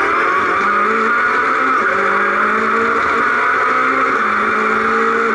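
Citroen C2 R2 rally car's engine heard from inside the cabin, driving at low speed in low gear and changing up once from first to second, over a steady hiss of cabin and road noise.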